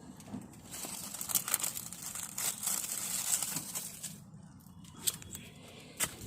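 Rustling and scraping handling noise while the broken-off piece of the heat-shield plate is searched for and picked up, with a couple of light clicks near the end.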